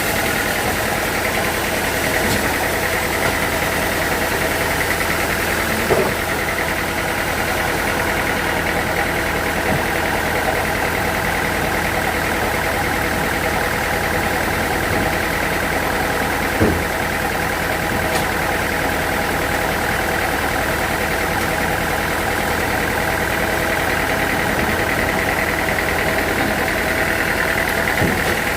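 Sawmill machinery running steadily, with a constant whine, and a couple of short knocks about six seconds and sixteen seconds in.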